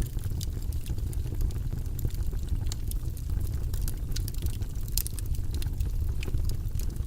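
Wood fire burning in a fireplace, crackling with frequent sharp pops and snaps over a steady low rumble of the flames.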